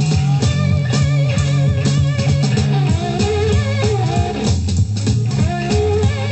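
Electric slide guitar blues played by a small band, with gliding guitar lines over a steady beat and no vocals, from a 1960 recording.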